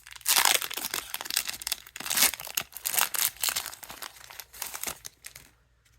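A trading-card booster pack wrapper being torn open and crinkled by hand: a run of crackling and tearing, loudest at the first rip, stopping shortly before the end.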